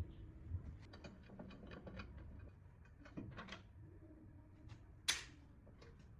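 Handling of tools and parts during a compressor-head restoration: a run of small clicks and taps, then one sharp clink about five seconds in.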